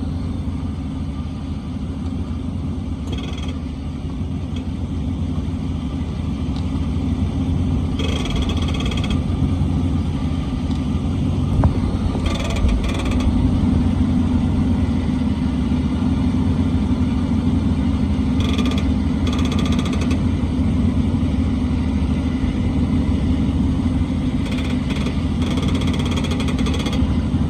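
2014 Ram 1500 pickup running with a steady low rumble. A higher-pitched noise comes and goes in several short stretches, with one sharp click near the middle. This is the noise the truck makes when turning, which the owner has found is not coming from the ball joints.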